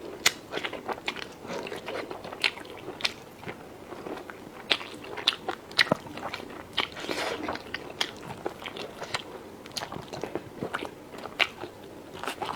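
A person chewing food close to the microphone, with irregular crisp crunches and mouth clicks, several a second.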